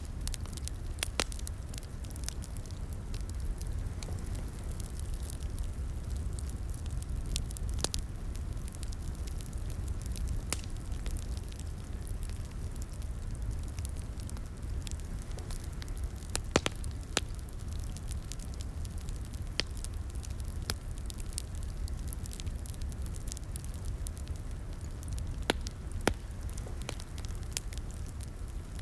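Wood fire in a fireplace crackling: a steady low rumble of burning with sharp, irregular pops and snaps, a few louder ones around the middle and near the end.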